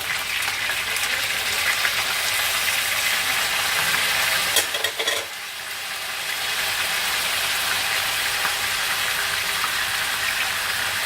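Chicken pieces with ginger, onion and star anise frying in oil in a non-stick pan: a steady sizzle. About five seconds in there are a few short clicks and the sizzle dips briefly before settling back.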